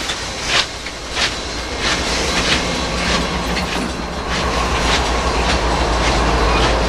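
Union Pacific train rolling past close by, the tender and auxiliary water tender cars running on the rails with a regular beat a little under twice a second that fades out about halfway through. From about two-thirds in, the steady drone of the trailing diesel locomotive's engine builds up and grows louder.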